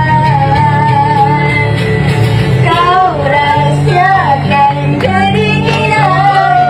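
Female voice singing over a steady low accompaniment: a long held note with vibrato, then quick ornamented runs up and down from about three seconds in.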